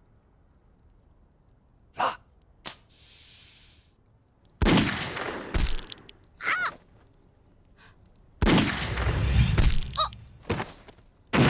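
Hand grenade fuse hissing briefly after the cord is pulled, then a sharp bang and later a longer, heavier blast with a rumbling tail: grenade explosions and gunfire in a firefight.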